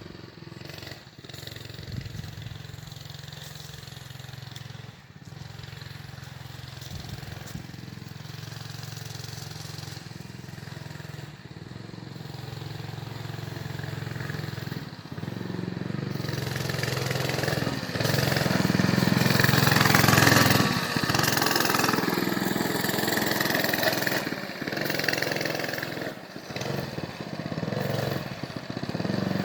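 Small 4 hp minibike engine running. It grows steadily louder over about twenty seconds, peaks, then rises and falls as the bike moves around.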